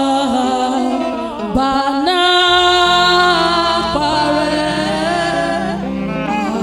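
A praise team singing a slow gospel praise song, with long held notes over instrumental accompaniment; a low sustained accompaniment comes in about two and a half seconds in.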